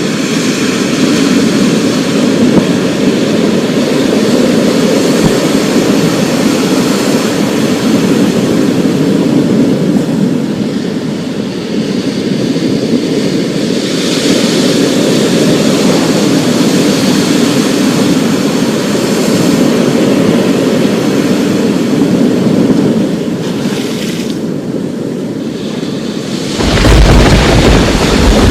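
Thunderstorm: a continuous rumbling rush of storm noise, then a loud, deep roll of thunder setting in near the end.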